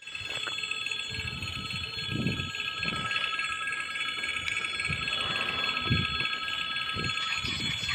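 Level-crossing warning bell ringing steadily, a sign that a train is approaching the crossing, with intermittent low rumbles underneath.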